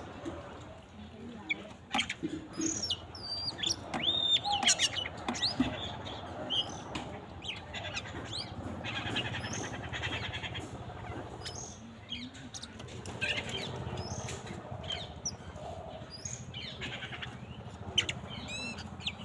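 Small birds chirping: many short, high, arching chirps scattered throughout, with a few buzzy chattering trills.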